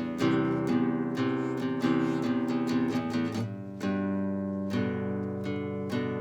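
Solo classical guitar played fingerstyle: quick picked notes and chords ringing over held bass notes, with the harmony changing a few times.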